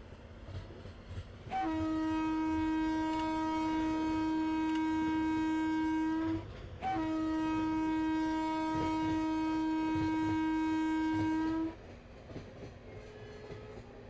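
Train horn sounding two long, steady blasts of about five seconds each with a short break between, over a low rumble of the train with occasional knocks.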